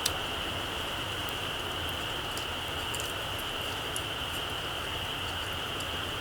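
Small campfire of embers crackling, with a sharp pop right at the start and faint scattered ticks after it. A steady high-pitched insect chorus runs behind.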